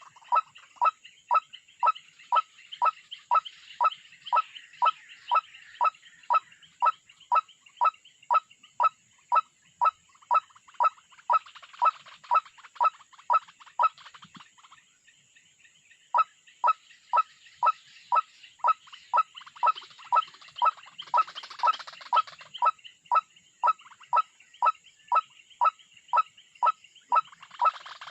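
Karoak bird calls: a short, sharp note repeated very evenly about twice a second, breaking off for about two seconds midway and then resuming.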